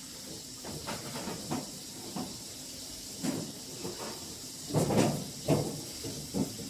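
Scattered light knocks and handling noises over a steady faint hiss, with a louder cluster about five seconds in.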